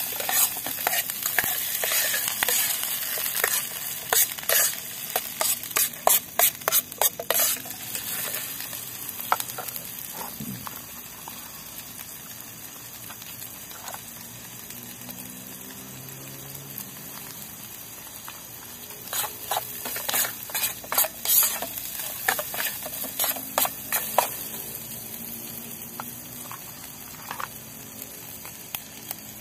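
Chopped shallots, garlic and chilies sizzling in oil in a small aluminium camping pan on a portable gas stove, a steady frying hiss. A metal spoon scrapes and clicks against the pan as they are stirred, in two spells: during the first several seconds and again about twenty seconds in.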